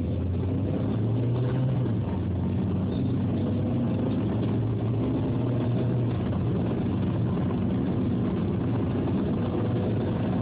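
Car engine running with road noise, heard inside the cabin: a steady low hum.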